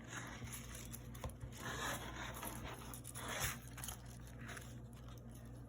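Faint rustling and scraping of craft wire and a branch being handled and hung up, in a few soft bursts with a couple of light clicks.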